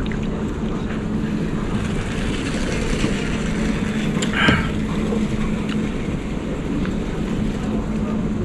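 Steady airport terminal background noise with a continuous low hum, broken by one brief louder sound about four and a half seconds in.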